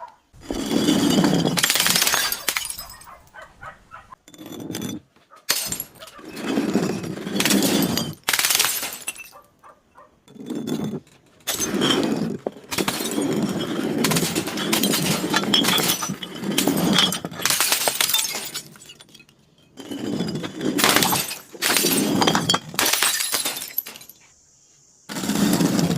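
Glass bottles breaking and crunching as they are crushed, in a dozen or so bursts of one to two seconds each with short pauses between.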